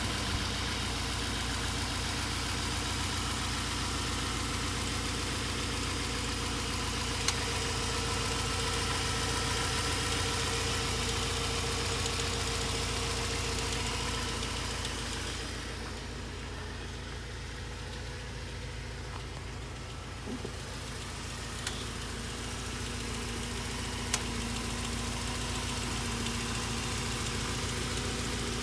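2005 Jaguar XK8's 4.2-litre V8 idling steadily. It goes a little quieter and duller for a few seconds past the middle, and a couple of faint single clicks come through.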